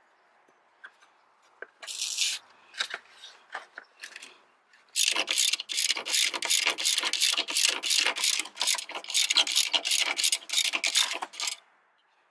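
Hand socket ratchet clicking through a quick run of strokes, about four or five clicks a second, for roughly six seconds, working a bolt while the main drive belt is being fitted. A short burst of noise comes about two seconds in.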